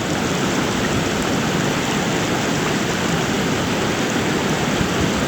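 Floodwater rushing in a steady, unbroken roar of water noise.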